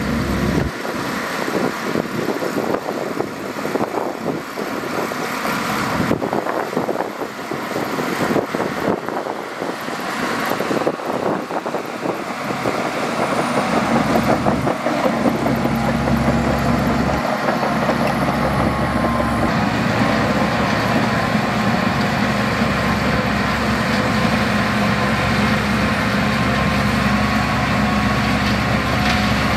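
A heavy earthmoving machine's diesel engine running, with rattling, scraping noise through the first half. About halfway in the engine grows louder and settles into a steady running note.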